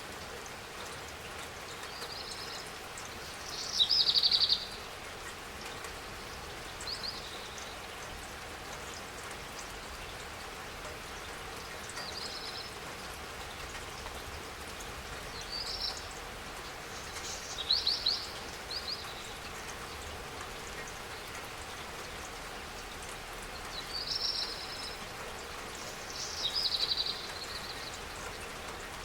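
Steady light rain hissing, with a bird singing short high phrases every few seconds over it; the bird phrases are the loudest sounds.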